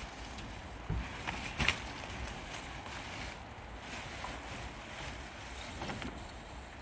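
Rushing wind noise on the microphone, with two sharp knocks of scrap being handled, about one second and nearly two seconds in.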